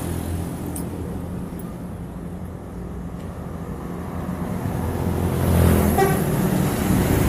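Truck engine running, getting louder about five seconds in as it comes closer.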